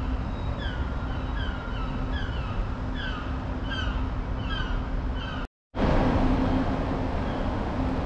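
Small bird chirping over a steady low background rumble: a short falling chirp repeated about twice a second for the first five seconds or so. The sound cuts out for a fraction of a second, then the rumble returns louder.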